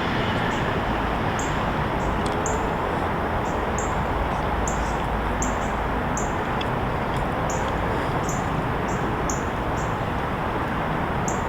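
Steady outdoor noise of wind and traffic, with a bird chirping over it: short high chirps repeating every half second to a second.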